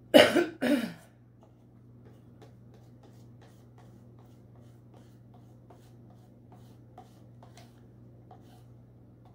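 Acrylic paint being stirred in a cup, with faint irregular taps and scrapes of the stirrer against the cup. Two loud, short bursts of noise come right at the start.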